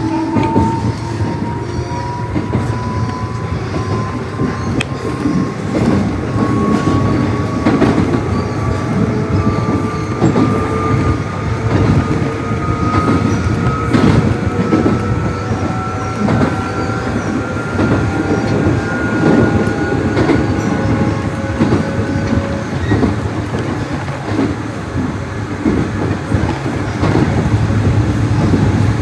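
Nishitetsu 600-series electric train accelerating, heard from on board: a motor whine rises slowly in pitch over most of the stretch under steady running noise. Wheels click over rail joints.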